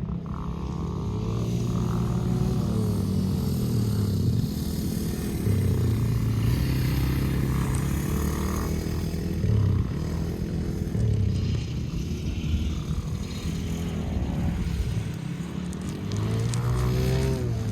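Dirt bike engine revving up and down, its pitch rising and falling again and again as the rider works the throttle and gears.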